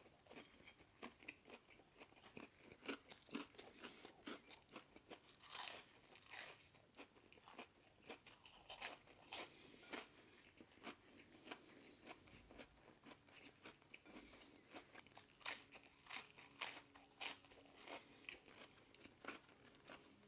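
Close-miked chewing of a fish-and-chip style frozen fish fillet: many small crunches and mouth clicks, fairly faint.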